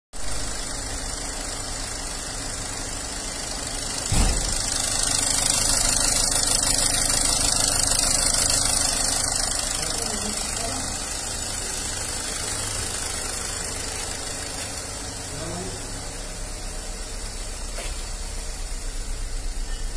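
Toyota Corolla diesel engine idling steadily during on-car particulate filter cleaning. A single thump comes about four seconds in, and a high hiss swells between about five and ten seconds before easing off.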